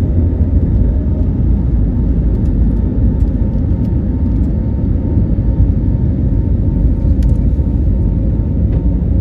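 Steady drone of an airliner's jet engines and airflow heard inside the passenger cabin, a deep rumble with a faint steady hum above it.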